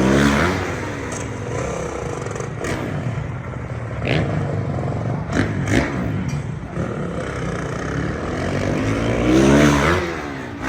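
Stunt motorcycle engine revving hard in two surges, one at the start and one near the end, the pitch sweeping as the bike accelerates past. Several sharp knocks and clatters come between the surges.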